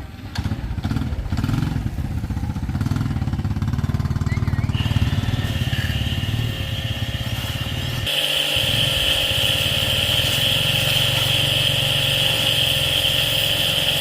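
Small engine running steadily with a pulsing low rumble, joined about five seconds in by a steady high whine that gets louder about three seconds later.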